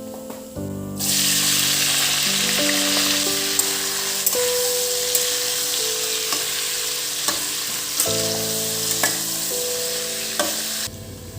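Food frying in a pan: a loud sizzle with scattered sharp pops, starting suddenly about a second in and cutting off just before the end, over gentle background music.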